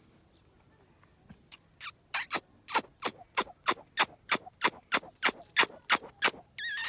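Parrot making a rapid series of short, sharp squeaky clicks, about three a second, then a brief warbling whistle near the end.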